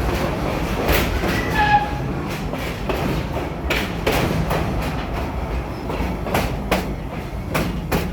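Amusement-park passenger train running along its track, heard from aboard: a steady low rumble with irregular clicks and knocks of the wheels over the rail joints.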